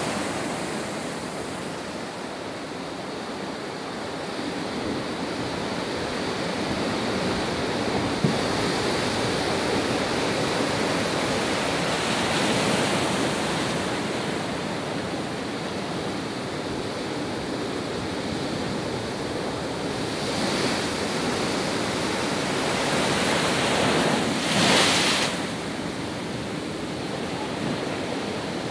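Rough sea waves surging and breaking, with wind gusting on the microphone. Several louder surges come through, the loudest about three-quarters of the way in.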